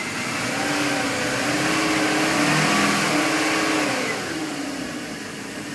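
Mercruiser 7.4 MPI V8 boat engine revved up from idle and let back down again while out of gear, where it runs without stalling. The pitch and loudness climb over the first few seconds and fall back to idle about four seconds in.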